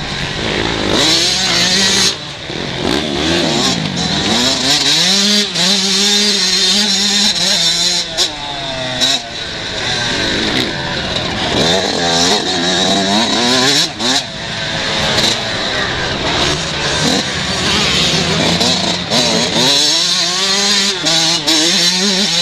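Several 125 cc motocross bikes racing, their engines revving up and dropping back again and again, with several engine pitches overlapping.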